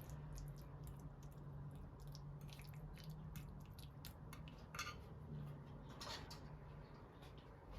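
Faint clinks and taps of dishes and utensils being handled, over a steady low hum.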